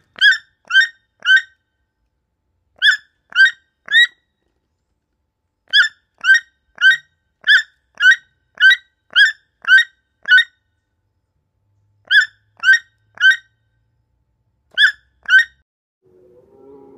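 Red panda calls: short, high calls repeated about two a second in runs of two to nine, with pauses between the runs.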